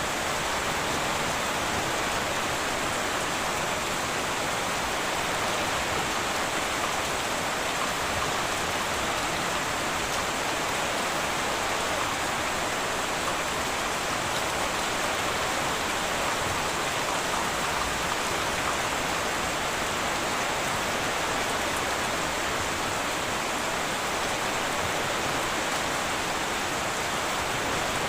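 Steady heavy rain drumming on a tin roof, an even hiss with no thunder.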